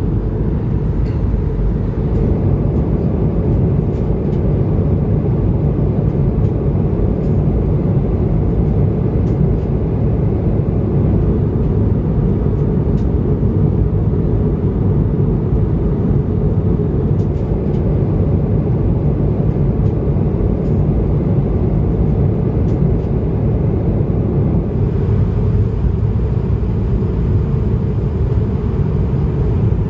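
Steady low rumble of an Airbus A220-300's engines and airflow, heard from inside the passenger cabin in flight, with a few faint clicks.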